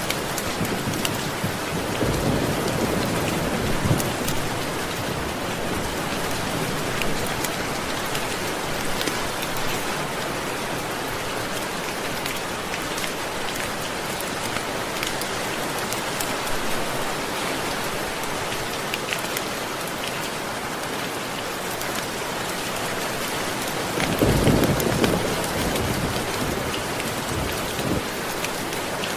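Steady rain with low rolls of thunder: a short one about two seconds in and a louder one near the end.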